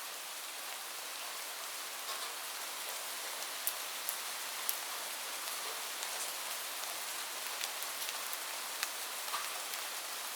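Steady rain hiss with sharp individual drops ticking on a hard surface, a few standing out clearly.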